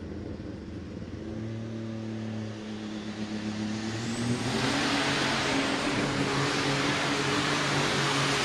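Alcohol-burning super stock pulling tractor engine revving as the tractor starts its pull. Its note steps up a couple of seconds in, and from about halfway it goes to a loud, full-power rush that keeps building.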